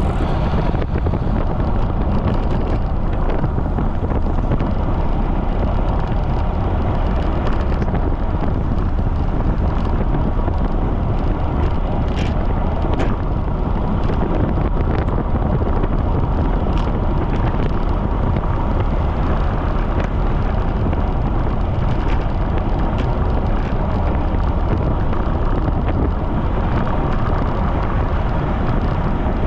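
Heavy, steady wind rumble buffeting the microphone of a bicycle-mounted camera riding at speed into strong wind, with a few faint ticks.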